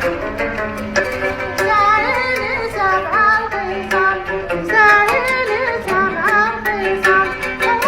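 A homemade oud plucked in a steady rhythm under a high melody that glides and bends with ornaments, from about two seconds in.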